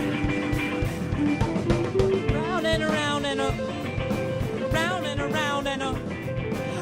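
Live band playing an improvised funk-soul groove: drum kit keeping a steady beat under bass and guitar, with a wavering, bending melodic line coming in twice in the middle.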